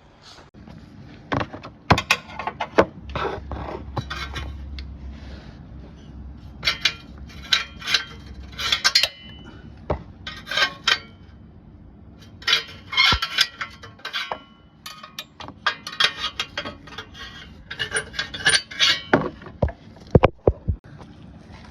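Rattling in a 2009 Acura MDX driving at low revs: irregular bursts of sharp metallic clicking and clinking over a steady low engine drone. This is the low-speed rattle the owner hears at around 1500–2000 rpm.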